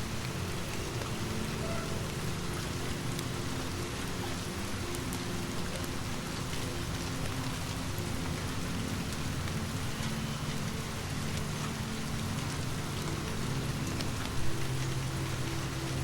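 Steady rain falling on a surface, with scattered faint ticks of drops and a low steady drone underneath. A brief louder thump comes near the end.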